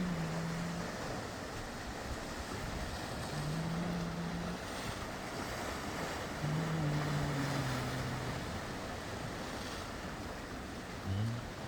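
Sea surf washing in as a steady rush of waves, with a few low held hums of a second or two each over it now and then.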